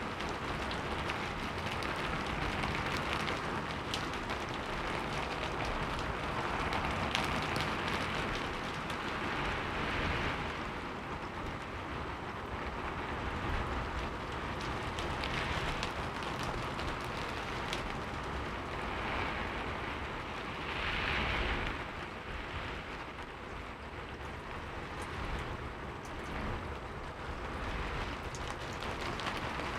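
Heavy rain falling in a steady, dense hiss with a low rumble beneath, swelling louder every few seconds.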